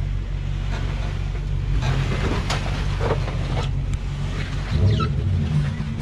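Off-road vehicle's engine idling with a steady low hum, with a few scattered clicks.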